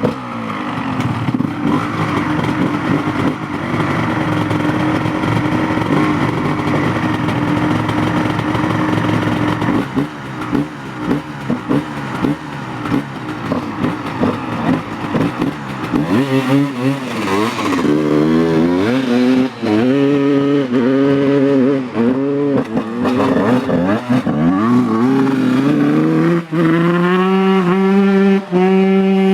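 Honda CR125 two-stroke single-cylinder motocross engine running at a steady speed, then revved in repeated short rising-and-falling bursts about once a second, and finally held at a steady high rev near the end.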